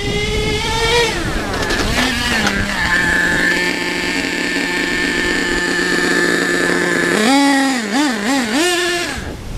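HPI Savage SS nitro RC truck's small glow engine revving up, then falling back. It runs at one steady high pitch for about four seconds, then is blipped up and down several times before it drops away near the end.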